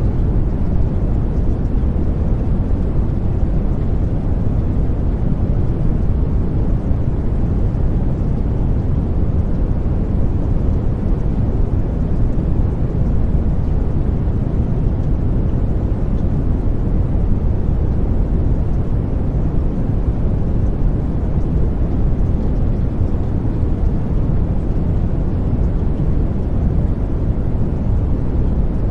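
Steady, unchanging low rumbling noise, like brown noise, with no breaks or events. It is the background noise bed of a subliminal affirmation track.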